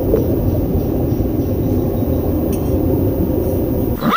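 A steady, loud, low rumble of noise with no distinct calls or tones.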